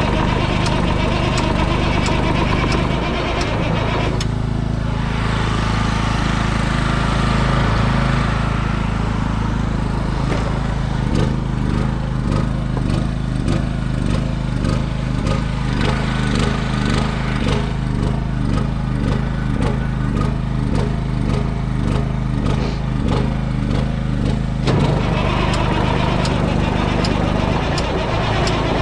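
An engine running steadily. Its note changes about three seconds in and again near the end, with a regular pulsing in between.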